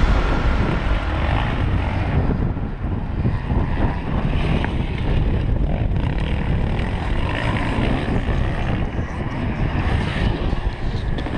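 Motocross bike engines running, a loud, steady, rough noise.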